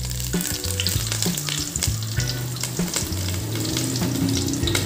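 Curry leaves and green chillies frying in hot oil in an aluminium pan, sizzling steadily with frequent sharp crackles and pops.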